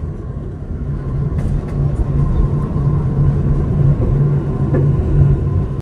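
Alishan Forest Railway train running, heard from inside a passenger car: a steady low rumble of the train and its wheels on the track.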